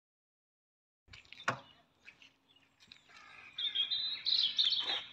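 Small birds chirping and singing, starting about a second in and busiest in the second half. A single sharp knock sounds about a second and a half in.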